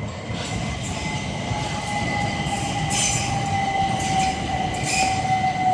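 Class 375 Electrostar electric multiple unit running on the rails, its rumble growing louder. A steady whine falls slowly in pitch, and sharp clicks from the wheels come every second or so.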